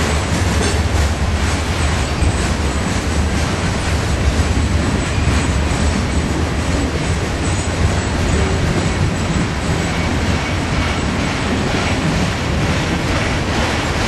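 Freight train cars (boxcars, flatcars and covered hoppers) rolling past close by: a steady rumble of steel wheels on the rails with a continual clatter of wheels over the track.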